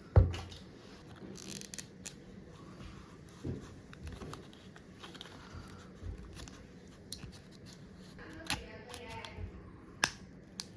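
Small repair tools clicking and scraping on a phone as its glued-in battery is worked loose by hand after the adhesive pull tabs broke. A loud knock comes just after the start and sharp clicks about 8 and a half and 10 seconds in, with quiet scraping and handling between.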